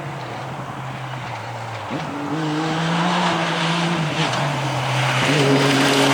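Rally vehicle engine running under load, its note stepping up and down in pitch a few times over a rushing noise as it grows louder.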